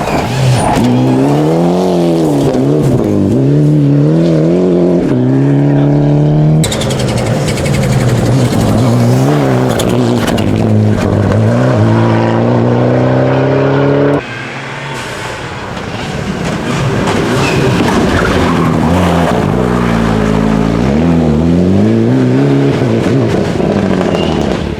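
Rally car engines revving hard, pitch climbing and dropping again and again as they accelerate and change gear on a rally stage. Three separate passages are cut together, changing abruptly about a third of the way in and again just past halfway.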